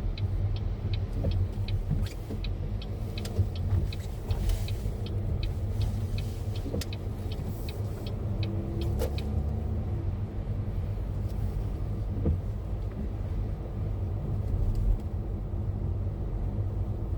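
Car driving, with a steady low road and engine rumble, and a quick regular ticking that stops a little past halfway.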